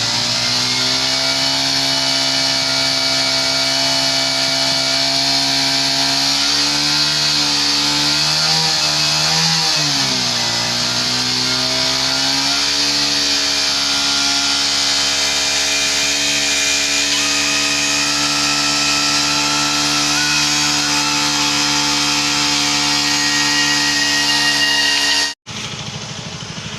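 Vehicle engine running steadily at idle, with a high buzzing hiss over it. Its speed wavers and dips briefly about ten seconds in, then settles again. The sound cuts off abruptly near the end.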